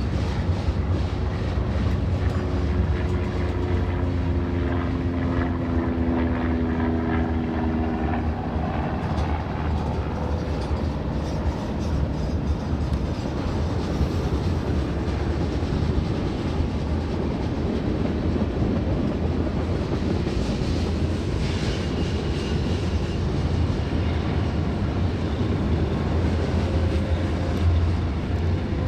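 Diesel freight train running: a steady low rumble. For the first eight seconds or so a locomotive engine drone is heard, sinking slightly in pitch.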